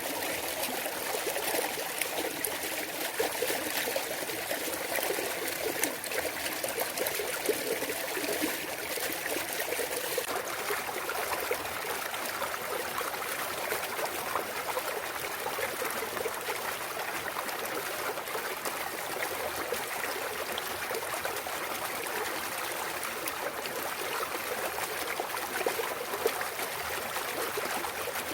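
Clear mountain stream water trickling and splashing over rocks in a steady, even rush. Its tone shifts slightly about ten seconds in.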